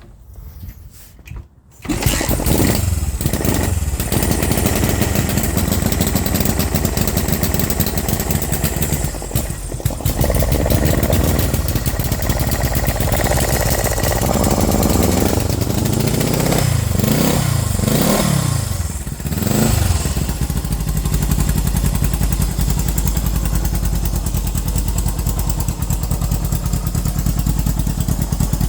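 1974 Honda CB360's parallel-twin engine firing up on choke about two seconds in, on a cold start. The revs rise and fall several times, then it settles into a steady idle.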